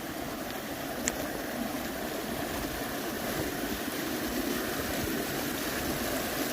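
River water rushing, a steady rushing sound that grows gradually louder.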